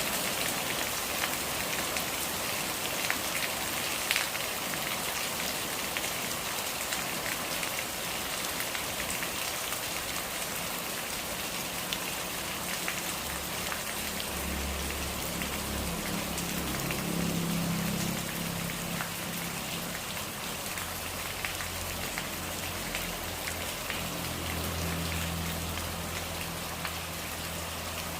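Steady rain falling, an even hiss with many individual drops ticking on a surface. From about halfway through, a low hum comes and goes underneath the rain.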